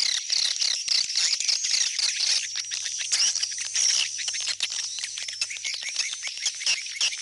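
Dense, continuous chorus of swiftlet chirps and twittering calls, many short overlapping notes and quick sweeps with clicky strokes among them. This is a swiftlet lure call, played in a swiftlet house to draw the birds back home.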